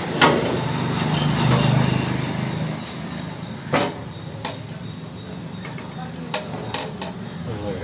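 Sharp metal knocks and clicks from work on the wet grinder's shaft and bearing, the loudest just at the start and a few more scattered later, over a low hum that fades after the first few seconds.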